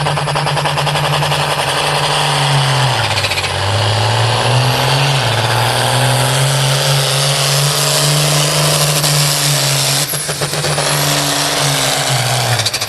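Case IH modified farm tractor's turbo diesel running flat out as it pulls the sled. The engine note sags about three seconds in, recovers, and drops off just before the end as the run finishes short of a full pull.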